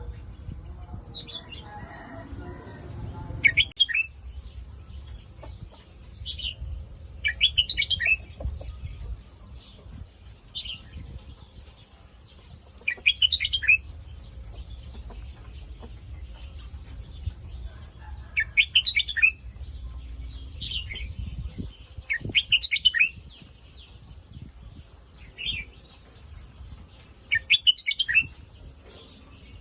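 Red-whiskered bulbul singing: bright phrases of about a second each, repeated every four to six seconds, with short single calls in between.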